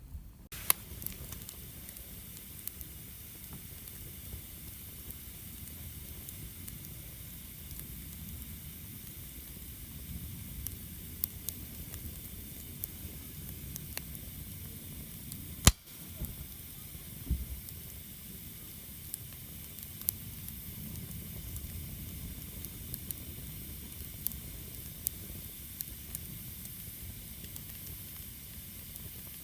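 A small wood campfire burning with a steady hiss and scattered crackles and pops. There is a sharp, louder snap about halfway through.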